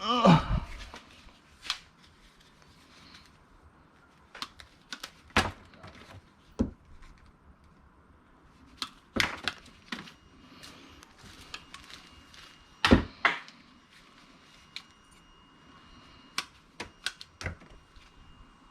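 Irregular sharp clicks and knocks of cables and small scrap being handled and sorted, a dozen or so spread unevenly, the loudest about 13 s in. A faint steady high tone sets in about halfway through.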